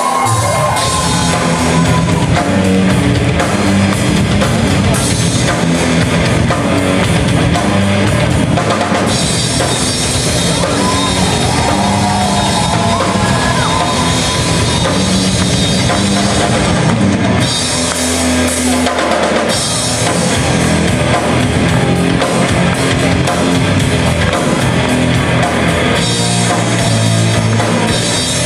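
A rock/metal band playing live, an instrumental passage: loud distorted guitars, bass and a pounding drum kit, the low end dropping out briefly about two-thirds of the way through.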